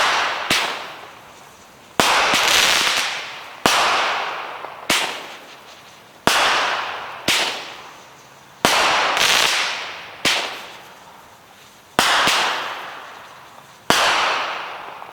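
A 200-gram 7-shot consumer fireworks cake firing. Sharp bangs come roughly every second and a half, each followed by a hiss that falls in pitch and fades over about a second.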